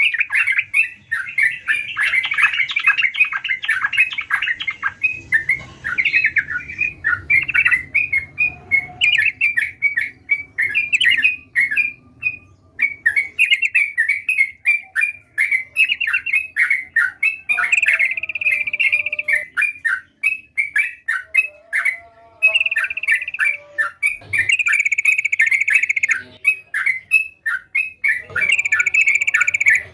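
Yellow-vented bulbul singing continuously in rapid, chattering runs of chirps, with short pauses about twelve and twenty-two seconds in.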